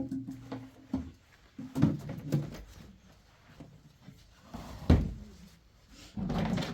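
A few separate knocks and bumps, like things being handled or a door or drawer being moved, the sharpest about five seconds in. A short, steady low hum sounds in the first second.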